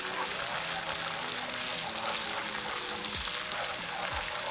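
Oil sizzling steadily in a wok as chopped garlic, shallots, curry leaves and dried shrimp fry, the aromatics being sautéed until the oil separates.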